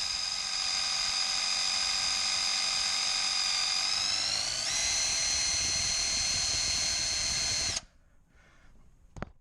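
Power tool driving a fluid transfer pump, a steady whine that steps up in pitch about halfway through as it speeds up, then stops abruptly; it is pumping divider fluid up into the transfer case. A single short click follows near the end.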